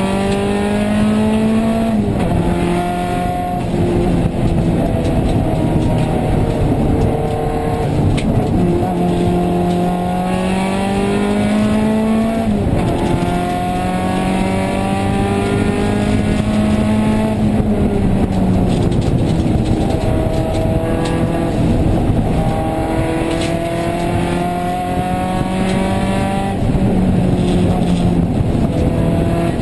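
Nissan 180SX rally car engine heard from inside the cabin, accelerating hard and revving up through the gears, its pitch climbing and then dropping sharply at each of several upshifts.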